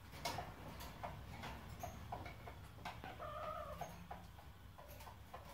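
Faint, short clucking calls like a hen's, with light clicks and taps scattered among them.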